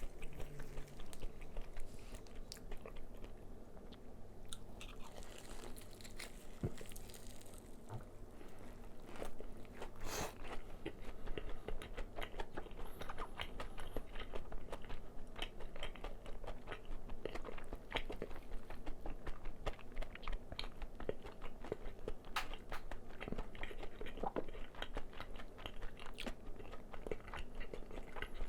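Crispy fried chicken being bitten and chewed close to the microphone: a steady run of crackly crunches from the fried coating, with one louder crunch about ten seconds in.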